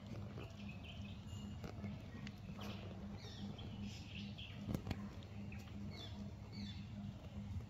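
Small birds chirping in short, scattered calls over a low steady hum, with a single sharp click a little under five seconds in.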